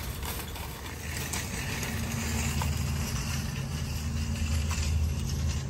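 Vehicle engine running with a steady low hum that gets stronger about two seconds in.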